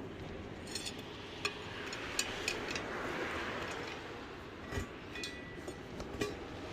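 Metal tyre tools clinking and knocking against a truck wheel rim during a tyre change: a string of short, sharp, ringing clinks at irregular intervals over a steady background hum.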